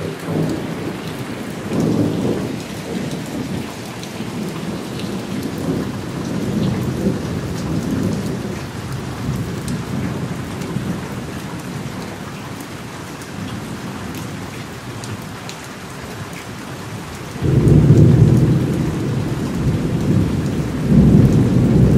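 Thunderstorm: steady rain with rolling thunder. A loud rumble of thunder breaks in suddenly about three-quarters of the way through and swells again near the end.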